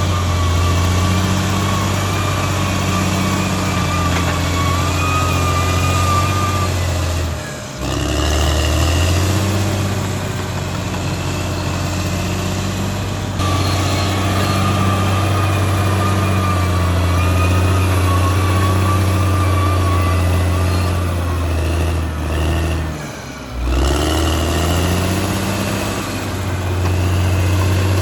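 Caterpillar D6R XL bulldozer's diesel engine running steadily, with a high whine over the engine note. Twice the engine sound drops briefly and comes back up, about seven seconds in and near twenty-three seconds.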